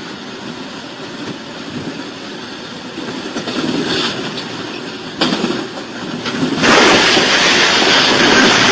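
A train running on the rails, a steady noisy rumble. About five seconds in there is a sudden sharp noise, and a second and a half later the sound jumps to much louder and stays there as the train comes close.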